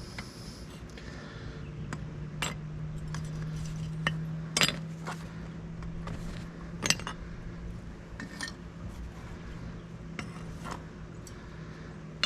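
Freshly cast copper coins and ingots being knocked out of graphite molds: several sharp metallic clinks a couple of seconds apart over a steady low hum.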